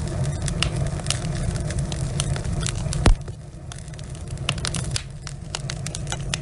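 Log fire crackling in a fireplace: many scattered sharp pops over a low steady rumble. One loud pop about three seconds in, after which the fire sounds quieter.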